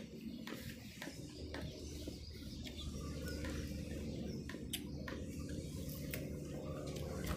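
Faint birds chirping in the background over a steady low hum, with a few light clicks.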